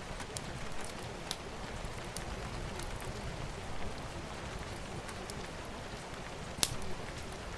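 Campfire crackling: a steady low rush of burning with scattered sharp pops and snaps, the loudest pop near the end.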